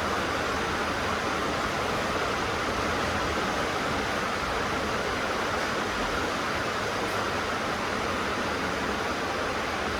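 Heavy rain drumming steadily on a tin roof, a dense even hiss.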